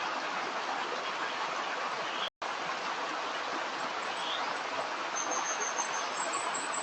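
Steady rushing of a flowing stream, cut off by a brief silent gap about a third of the way in.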